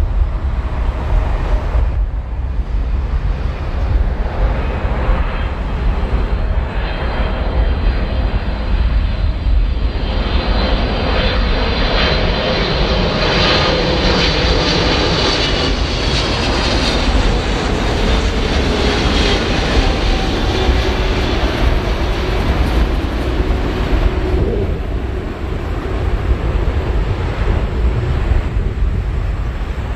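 Boeing 777-300ER's GE90 jet engines on landing approach, passing close by: an engine whine whose tones slide slowly down in pitch through the middle, over a steady low rumble.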